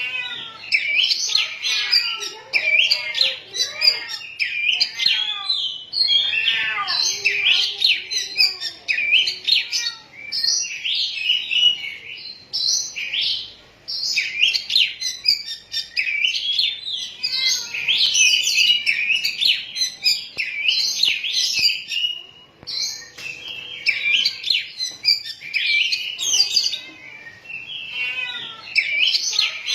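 Oriental magpie-robin (kacer poci) singing a continuous, rapid run of varied whistles and chirps, with brief pauses about halfway and two-thirds through.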